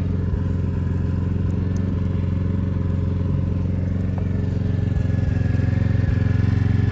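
Generator engine running steadily at a constant speed, a loud, even low drone.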